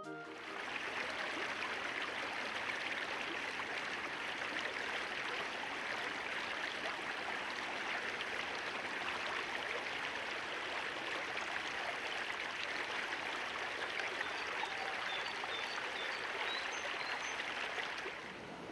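Water of a stream flowing with a steady rushing sound, with a few faint, short, high bird calls near the end.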